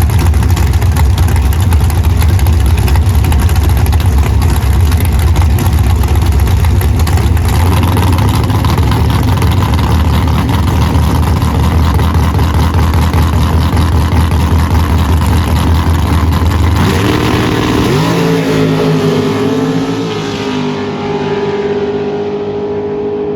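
Drag race cars' engines running loud at the line and down the strip, a heavy low rumble. About 17 seconds in it gives way to a quieter engine holding steady pitches.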